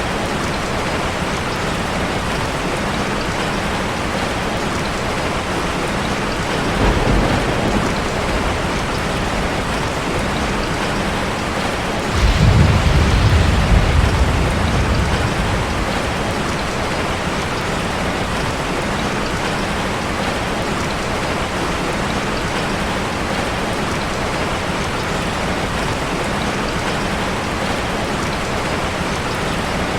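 Heavy rain drumming steadily on a car, with thunder rumbling low: a short roll about a quarter of the way in, then a longer, louder one near the middle that lasts a few seconds.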